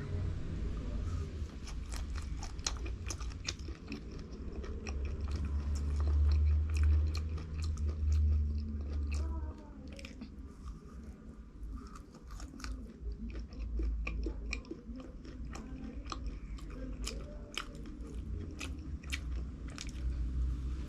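Close-miked biting and chewing of crunchy fried food, with many sharp crunches throughout. A deep low rumble swells from about six to nine seconds in.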